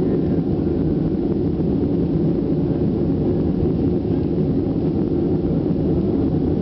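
Steady jet engine and airflow noise inside the cabin of a Ryanair airliner climbing after takeoff: an even, loud low rumble with no changes.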